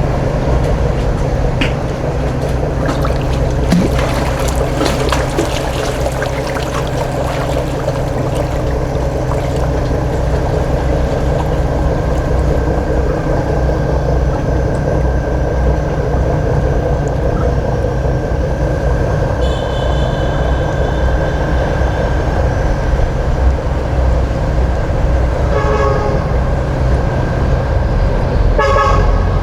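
A boat's engine running steadily with a low, even drone. Two short toots come near the end.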